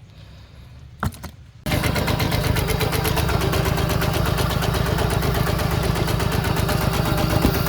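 Yanmar diesel engine of a power tiller running steadily with a fast, even chugging. It comes in abruptly about a second and a half in, after a low hum and a couple of brief clicks.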